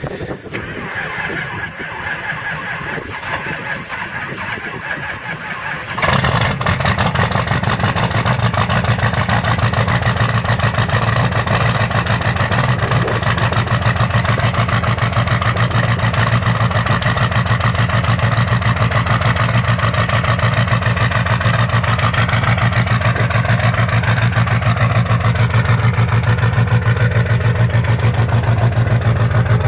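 2003 Chevrolet/GMC LB7 Duramax 6.6-litre V8 turbodiesel being cold-started after three days unplugged at about −4 degrees. The starter cranks for about six seconds, then the engine catches suddenly and settles into a loud, steady cold idle.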